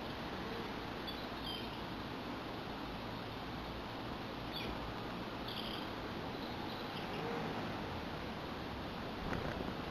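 Faint, short high-pitched chirps from small garden birds, a few scattered calls over a steady outdoor background hiss.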